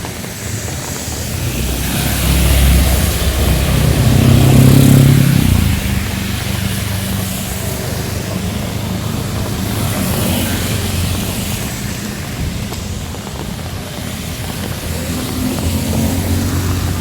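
Heavy rain falling steadily, with a motor vehicle passing close by: its engine builds from about two seconds in, is loudest around five seconds in, then drops away. Another vehicle approaches near the end.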